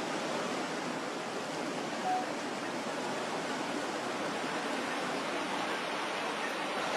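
A steady rushing hiss with no rhythm, and a brief faint tone about two seconds in.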